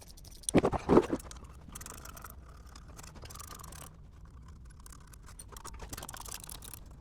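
Metal exhaust clamps and pipe being worked loose with hand tools: a few sharp knocks about a second in, the loudest part, then quieter scraping and scattered clicks.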